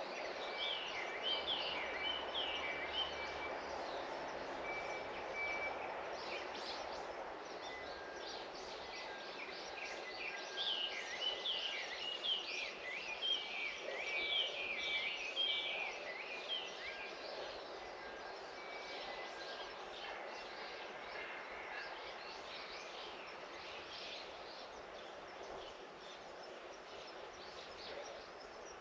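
Small birds chirping and calling in quick, sliding notes, busiest in a flurry from about ten to sixteen seconds in, over a steady outdoor background hiss.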